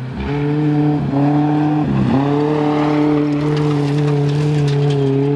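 A rally SUV's engine held at steady high revs as it powers along a loose dirt track. The revs dip briefly twice, about one and two seconds in, then hold at the same pitch.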